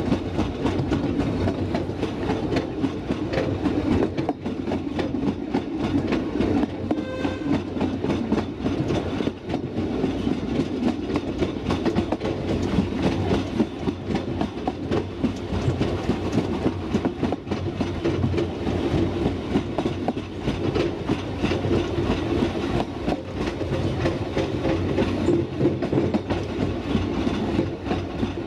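A 2 ft narrow-gauge passenger train hauled by a battery-electric locomotive running steadily along the line, its wheels rumbling and clicking on the rails.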